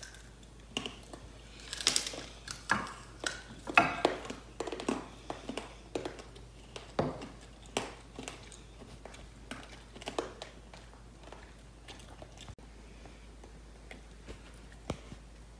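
Candy apples being bitten and chewed: the hard sugar shell cracks in a run of sharp crunches that thin out after about ten seconds.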